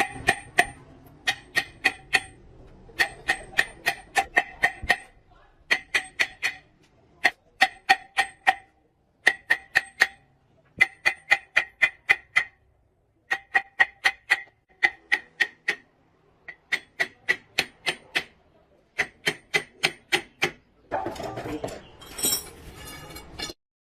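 Rapid metallic strikes in bursts of about four to eight, each ringing briefly at the same pitch, like light hammer taps on a steel part. A short noisy scraping stretch comes near the end, and then the sound cuts off abruptly.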